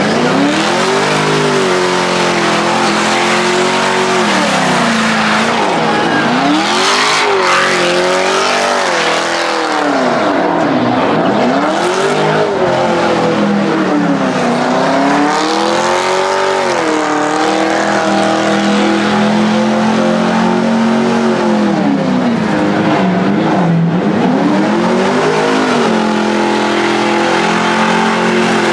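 Car engine revved hard and let drop again and again, its pitch climbing and falling every few seconds, over a constant hiss of tyres spinning and squealing on pavement.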